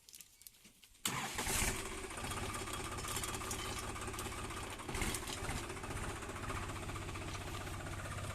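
A diesel vehicle engine comes in suddenly about a second in and then runs steadily with an even, low firing beat.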